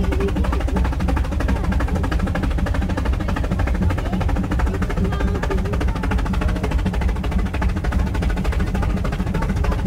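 Brienz Rothorn Bahn cog railway train climbing, heard from the carriage: a steady, rapid, even clatter over a low rumble.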